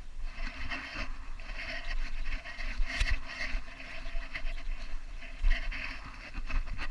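Rubbing and jostling noise from a GoPro strapped to a moving Belgian Malinois, the camera housing and mount scraping against the dog, with sharp knocks about three seconds in and again a couple of seconds later.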